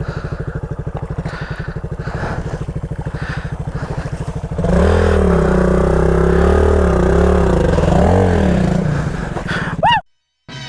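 Suzuki single-cylinder dirt bike engine idling with an even putter, then revved up and held at higher revs from about four and a half seconds in, its pitch rising and falling. The sound cuts off suddenly near the end.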